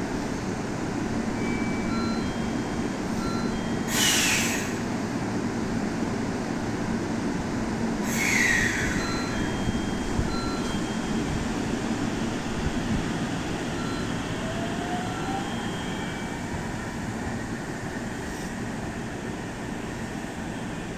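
JR 313 series electric train standing at the platform and then pulling out, with a steady hum throughout. There are two loud hisses with a falling tone about four seconds apart, and later a faint rising whine as it accelerates away. Short electronic chime tones repeat throughout.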